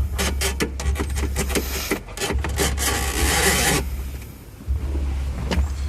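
Scraping and rubbing of a claw pickup tool and wiring inside a car dashboard as it fishes for a wire. A quick string of clicks and rattles comes first, then a steady scraping stretch about two to four seconds in, over a low hum.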